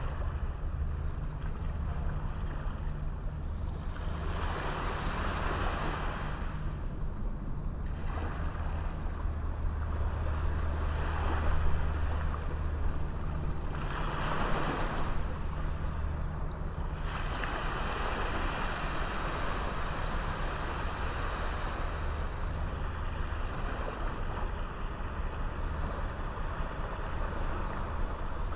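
Sea waves washing onto a beach, the surf swelling and fading every few seconds, with a longer continuous wash in the second half. A steady low rumble runs underneath.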